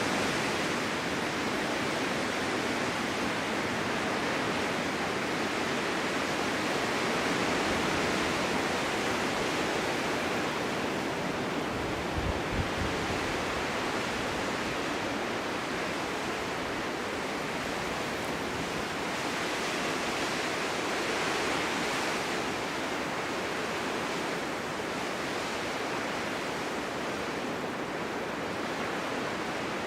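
Winter wind blowing steadily in a snowstorm: a continuous rushing that swells and eases slowly, with a brief low buffet of wind on the microphone about twelve seconds in.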